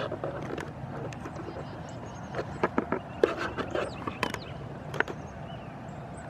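Short, high bird chirps scattered over a steady low hum, with a cluster of sharp knocks and rattles about two and a half to five seconds in.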